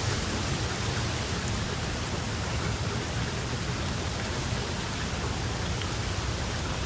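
Steady rainfall: an even hiss with a few faint individual drop ticks.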